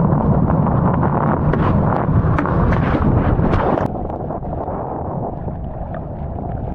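Wind buffeting the camera microphone during a wing foil ride, a loud, steady rushing roar with water noise mixed in. About four seconds in it drops suddenly and turns duller.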